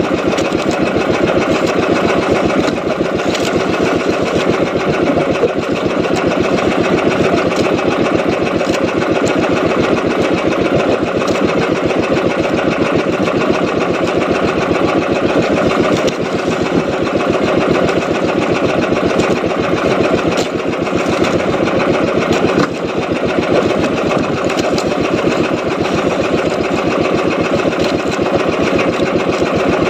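Small boat engine running steadily at a fast, even beat, with a brief dip in level about three-quarters of the way through.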